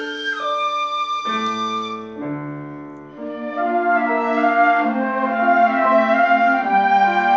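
A mixed ensemble of strings, winds and piano playing slow music with long held melody notes over chords. It thins and softens about two to three seconds in, then swells fuller and louder.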